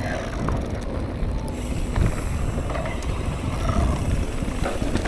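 Riding noise from a mountain bike on the move: wind buffeting the camera microphone over the rumble of the bike rolling along, steady throughout, with a faint high whine joining about a second and a half in.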